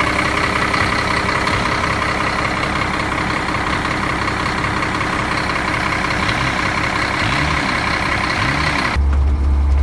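Engine running steadily at idle. About nine seconds in, the sound switches abruptly to a deep, steady drone.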